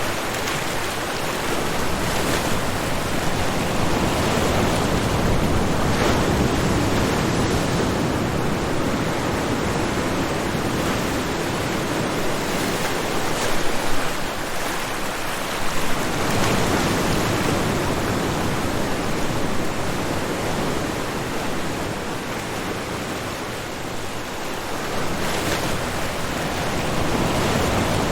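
Ocean waves breaking and washing onto a shore: a continuous rushing surf that swells and eases slowly, with a short lull about halfway through before the next wave builds.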